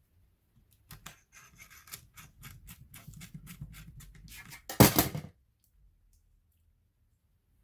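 A run of small clicks and scrapes from laptop parts being handled, then a short, louder burst of noise about five seconds in, the loudest sound.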